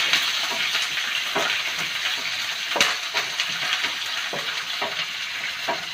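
Chopped onion sizzling as it fries in hot oil in a pan, with a steady hiss. A spoon knocks against the pan several times while stirring; the loudest knock is about three seconds in.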